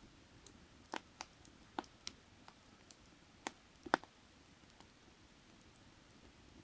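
Burning firewood crackling: scattered sharp pops and snaps at irregular intervals, the loudest a little before four seconds in, over a faint steady background noise.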